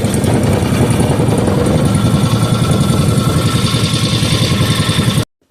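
Rebuilt 5 hp Briggs and Stratton single-cylinder engine running steadily, a happy, even-running engine after its idle and mixture were set. The sound cuts off suddenly near the end.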